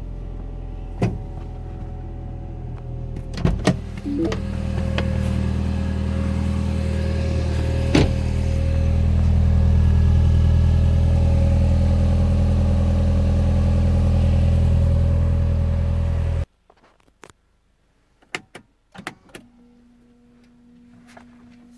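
Car engine idling just after a cold start, a steady low drone that grows louder a few seconds in, with a few sharp clicks over it. The engine sound cuts off abruptly about three-quarters of the way through. What follows is quiet, with scattered clicks and a faint steady hum near the end.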